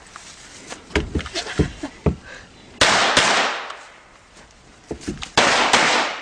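Pistol shots on a practical shooting stage. A few sharp reports come in the first two seconds, then two louder shots with long ringing tails about three and five and a half seconds in.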